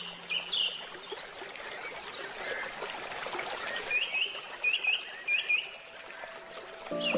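A gently trickling stream with a bird calling in short falling chirps, two runs of about four calls each. Handpan notes come back in right at the end.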